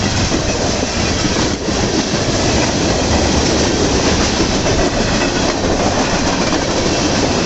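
Freight cars of a local freight train rolling past close by: a steady, loud rumble of steel wheels on the rails.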